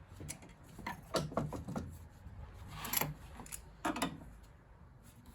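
Several scattered clicks and knocks of small metal boiler fittings and tools being handled during dismantling.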